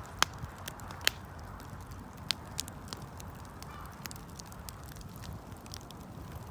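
Wood campfire burning, with irregular sharp crackles and pops over a low steady rumble of the flames; a few pops stand out, about a quarter second in, about a second in and a little past two seconds in.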